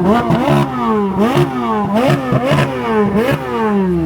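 Car engines revved hard over and over, each throttle blip jumping up in pitch and sliding back down, about six times in quick succession, with revs overlapping.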